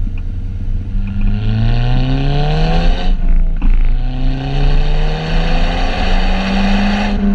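Car engine accelerating through the gears: the engine note climbs, drops at a gear change about three seconds in, then climbs again, over a steady low rumble of wind and road noise on the outside-mounted microphone.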